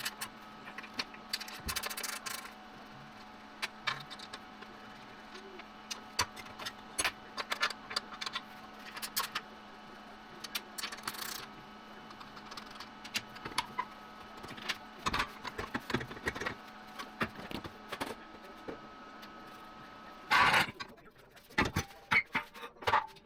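Scattered clicks, clinks and knocks of hand work on metal parts over a steady low hum. A louder clatter comes about 20 seconds in, and the hum stops there.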